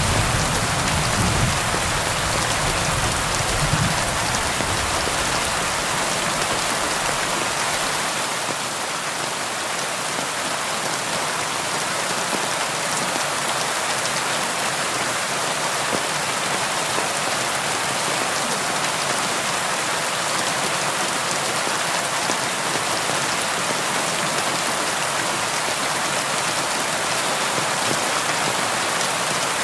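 Steady rain falling on a window, an even hiss of drops with no break. A low rumble of thunder dies away over the first several seconds.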